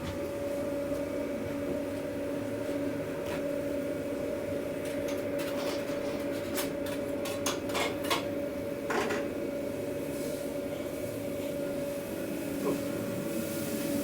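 Steady machine hum in a food-truck kitchen, with scattered clicks and clatter of utensils and takeaway containers being handled, coming thickest around the middle.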